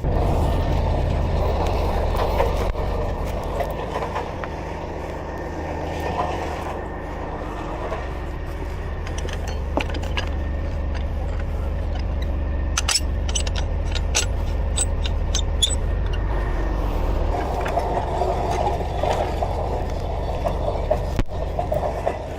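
Heavy tow truck's engine running steadily with a low hum, with a quick run of sharp clicks a little past the middle.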